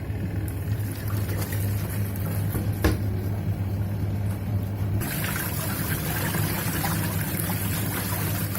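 Akai twin-tub washing machine on its wash cycle: the wash motor hums steadily while the pulsator churns clothes through soapy water, with one knock about three seconds in. The sloshing grows brighter and louder about five seconds in.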